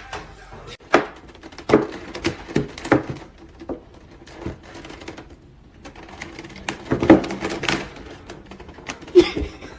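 A string of irregular knocks and clicks, some sharp and some softer, in a small room, the loudest about seven seconds in.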